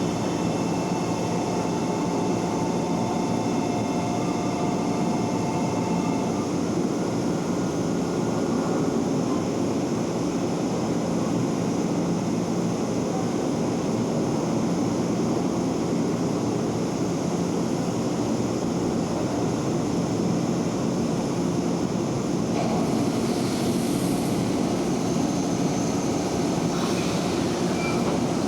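Electric commuter train noise, a steady mechanical running sound with faint steady whining tones that fade about six seconds in; the higher part of the sound shifts near the end.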